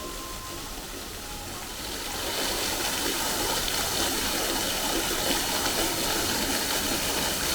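Steady rushing of running water, growing louder about two seconds in.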